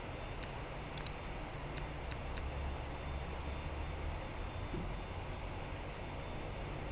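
Steady, distant rumble of jet aircraft engines, swelling slightly a few seconds in, with a few faint clicks early on.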